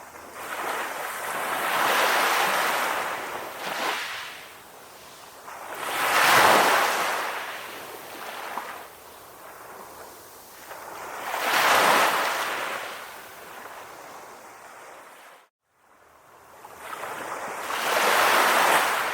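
Calm ocean waves washing in, about four swells each rising and falling every five to six seconds, with a quieter wash between them. The sound drops out abruptly for about half a second about three-quarters of the way through.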